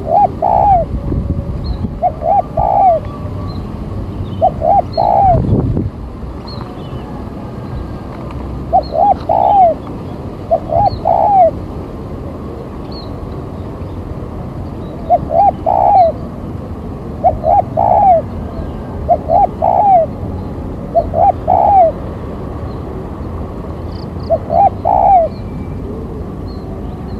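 Spotted dove (tekukur) decoy bird cooing: repeated phrases of two or three short rising-and-falling coos, in bouts with a pause of a few seconds in the middle. It is the territorial call used to lure wild doves. Faint chirps of small birds sound behind it, and there is a low thud about five and a half seconds in.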